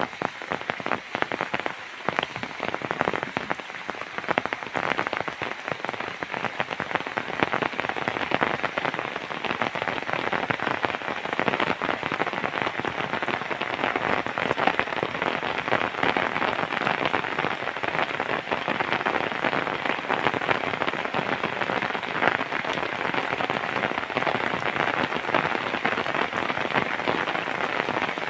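Rain falling steadily, a dense patter of drops hitting a surface; the patter grows thicker and more even after the first few seconds.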